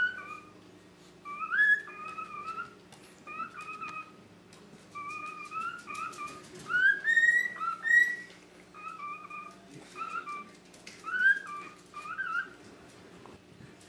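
Cockatiel whistling a string of short warbled phrases, several notes sliding upward, the loudest about halfway through, before stopping shortly before the end.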